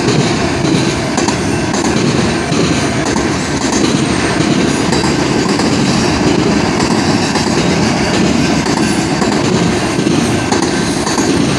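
Freight train of autorack cars rolling past close by: a steady, loud noise of steel wheels running over the rails.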